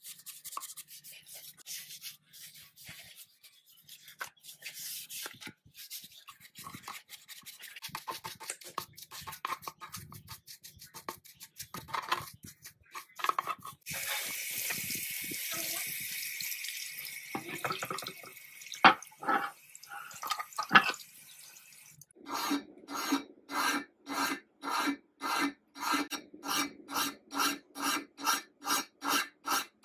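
Hand sanding and filing: irregular rubbing and scraping strokes, a steady hiss for a few seconds in the middle with two sharp clicks after it, then a regular back-and-forth filing rhythm of about two to three strokes a second.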